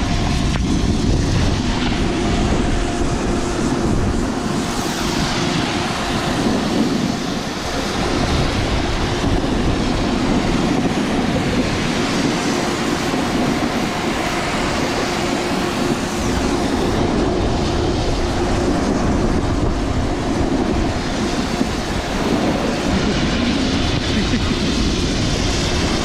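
Wind rushing over the microphone with a steady rumble, and a snowboard sliding and scraping on snow during a run down the slope.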